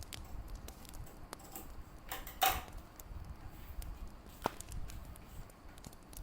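Wood fire crackling in a fireplace: irregular sharp snaps over a low rumble, with one louder pop about two and a half seconds in.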